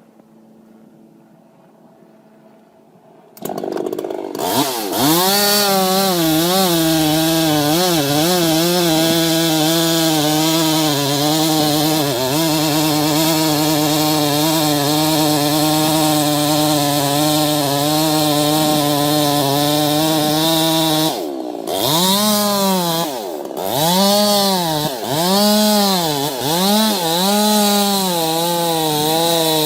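Two-stroke chainsaw coming in loud about three seconds in and running at steady high revs. Near the end it briefly drops off, then revs up and down repeatedly.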